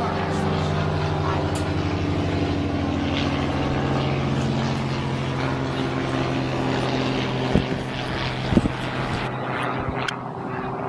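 Boat engine running steadily under way, a constant droning hum. Two short knocks come in about three-quarters of the way through.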